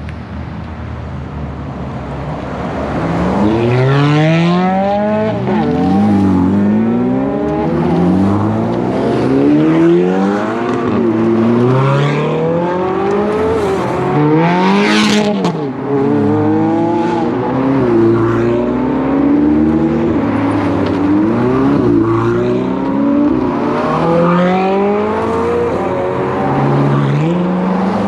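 Ferrari sports car engines accelerating away one after another, each revving up in rising sweeps that drop and climb again through the gear changes, often several at once. The first few seconds are quieter; after that it is loud, with one especially sharp high-revving pass about halfway through.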